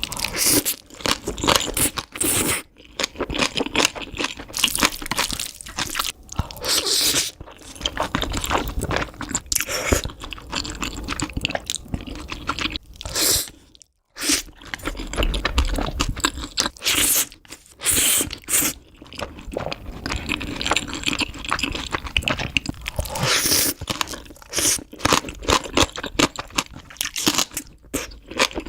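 Close-miked eating: repeated crisp, crunching bites and chewing of crunchy food, with a brief break about halfway through.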